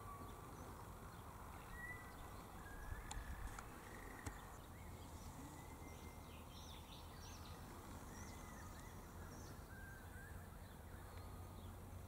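Faint outdoor ambience with soft, short bird whistles and chirps scattered through, and a few light clicks about three to four seconds in.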